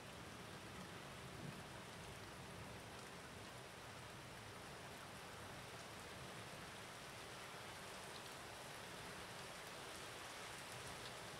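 Steady, faint rain falling, with a few scattered drop ticks.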